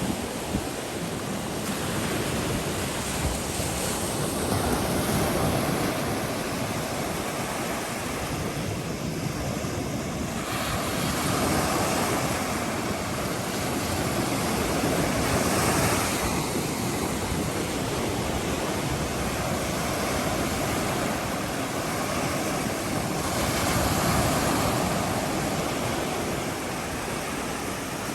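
Ocean surf washing onto the shore, a steady rush that swells every several seconds as waves break.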